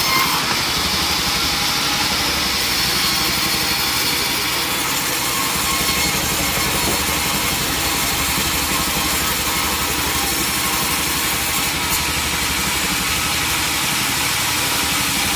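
Sawmill machinery running steadily, an engine-like drone with a fast low pulsing and a broad high hiss that shifts in level a few times.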